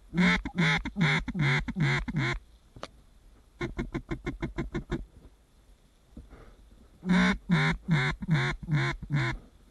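Mallard-style quacking blown on a hunter's duck call: a string of about six loud quacks, a faster and quieter chatter of short notes, then another string of about six quacks, calling to ducks in flight.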